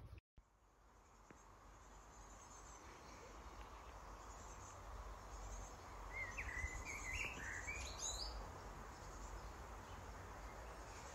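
Faint outdoor ambience, with a small bird chirping several times about six to eight seconds in.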